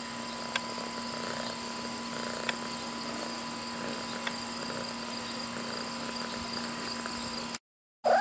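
Crickets trilling in a steady high-pitched chorus, with a few faint ticks. The sound cuts out for a moment near the end.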